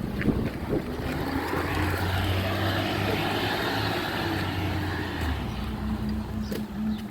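Recycling truck's engine running, with a broad hissing noise that swells over the middle few seconds. A little over five seconds in, the engine's pitch shifts and the noise fades.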